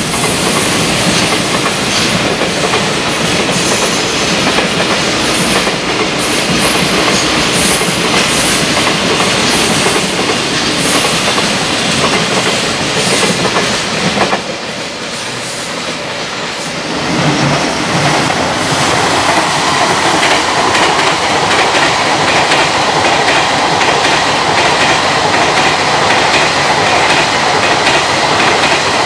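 Container freight train rolling past, its wagon wheels clattering over the rail joints. The noise drops for a couple of seconds about halfway, then builds again as freight wagons keep passing.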